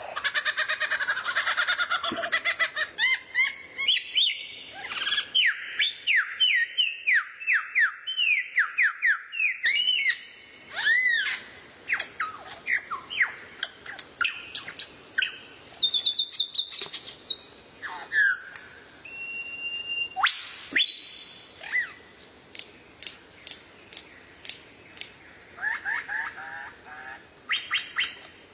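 Songbird singing: a dense chatter at first, then a long run of rapid sweeping whistled notes, several a second, followed by varied separate calls and a held whistle, with more chatter near the end.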